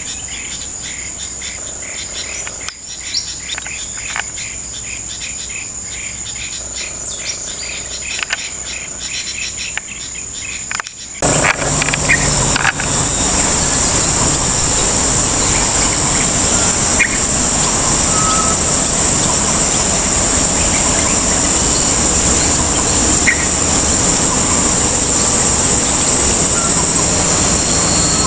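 Small birds chirping over a steady high insect buzz. About eleven seconds in, a much louder steady rushing noise cuts in suddenly and stays, with the insect buzz and occasional chirps still heard over it.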